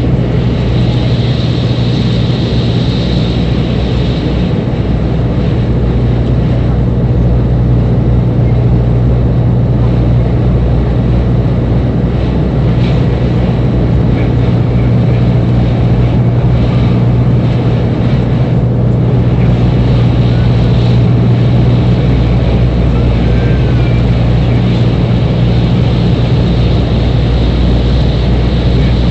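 Airliner engines running steadily in flight, heard inside the passenger cabin: a constant loud low drone with a faint high whine over it.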